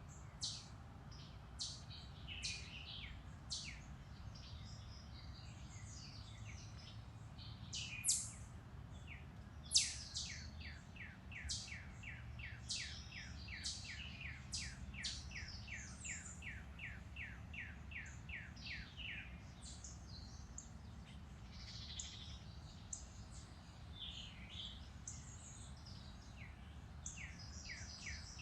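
Several woodland songbirds singing and chirping, with short high downward-sweeping notes throughout and one bird delivering a long fast series of repeated descending notes, about three a second, in the middle. A steady low rumble runs underneath.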